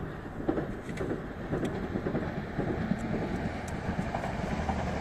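Regional electric train running along the tracks below, a steady low rumble with scattered light clicks from the wheels on the rails.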